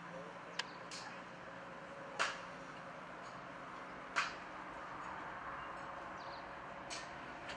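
A train running along the track, a steady rolling noise with several sharp clicks scattered through it, the loudest about two and four seconds in.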